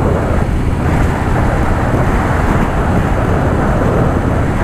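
Harley-Davidson Softail Fat Boy's V-twin engine running steadily on the move, mixed with rushing wind noise on the mic.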